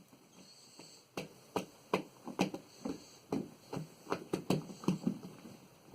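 Sticky homemade slime being squeezed and pulled apart by hand, making irregular wet clicks and smacks, a few each second, starting about a second in.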